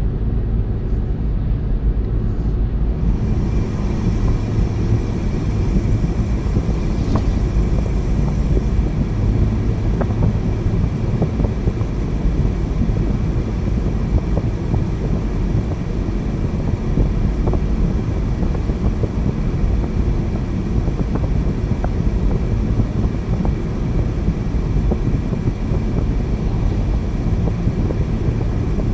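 Car driving along a road: a steady low rumble of tyres and engine, with a few faint, scattered ticks.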